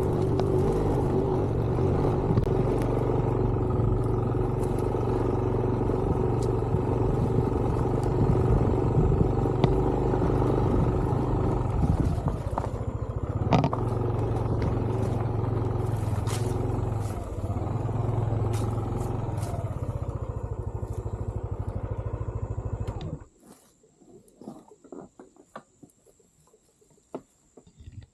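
Motorcycle engine running steadily under way. It cuts off abruptly about three quarters of the way in, leaving near quiet with a few faint ticks.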